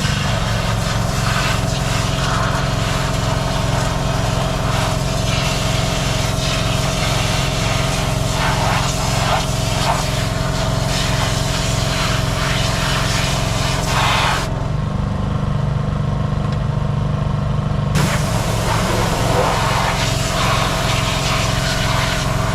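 Engine running steadily at a constant speed. Its higher noise drops away for a few seconds midway.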